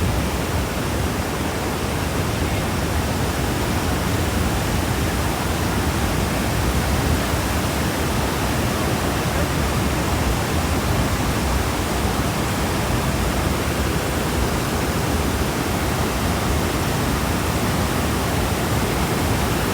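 Niagara Falls: a steady, loud rush of falling water.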